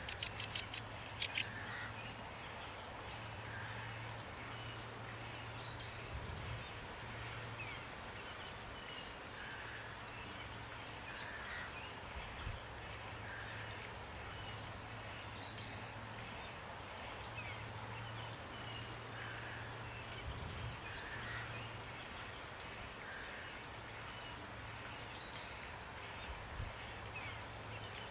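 Steady rain hiss with small birds calling over it, short high notes that sweep quickly downward and repeat every second or two. A low hum comes and goes beneath.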